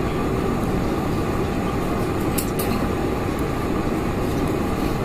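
Steady, rumbling cabin noise inside a Boeing 747-400 airliner, with two short clicks about halfway through.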